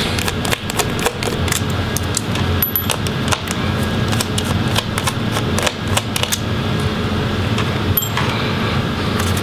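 Small scattered clicks and taps of a screwdriver working the screws that hold a laptop battery, and of the screws being handled, over a steady low background hum.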